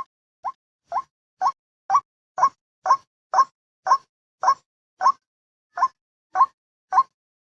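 White-breasted waterhen calling, a recorded lure call: a short rising note repeated about twice a second, growing louder over the first two seconds.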